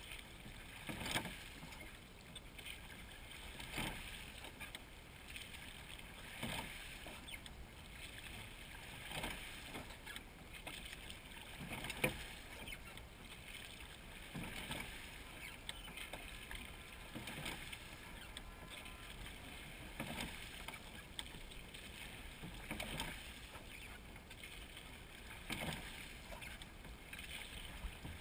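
Crew rowing a wooden seine boat in unison at a steady pace: a soft knock and splash from the oars on each stroke, about every two and a half to three seconds.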